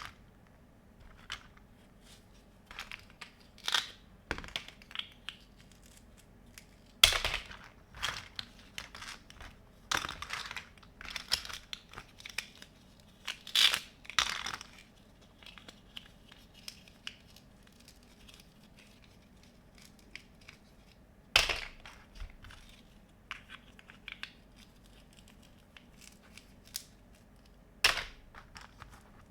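Hands handling pieces of a children's plastic kitchen playset, making irregular clicks, rustles and crinkles, with louder handling noises about 7, 13, 21 and 28 seconds in.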